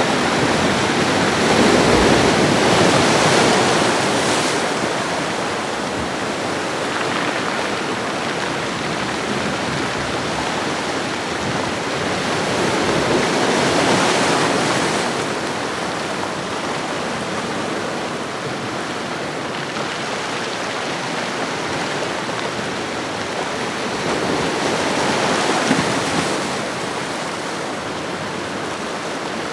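Ocean waves washing onto a shoreline: a steady rush of surf that swells three times, about every eleven or twelve seconds, as waves break and draw back.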